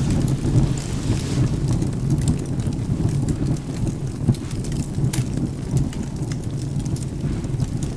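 Steady rain with a continuous low rumble of thunder, over a wood fire crackling with scattered sharp pops.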